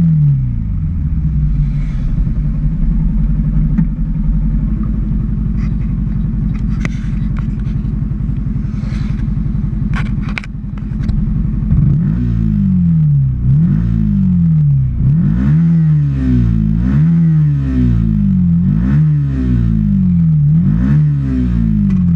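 Yamaha R15's single-cylinder four-stroke engine breathing through a Scorpion full-system exhaust with the dB killer removed: idling steadily for about twelve seconds, then blipped through a run of quick throttle revs, about one a second, each rising and dropping back.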